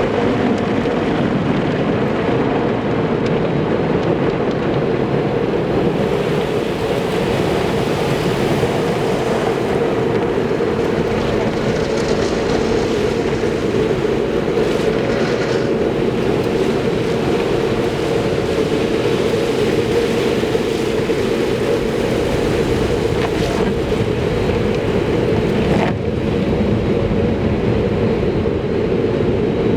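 Automatic car wash equipment running: a loud, steady rush of spraying water or blowers with a constant hum.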